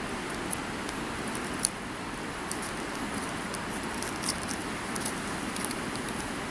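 Driftwood fire crackling, with irregular sharp pops (one louder snap about one and a half seconds in) over a steady rushing noise.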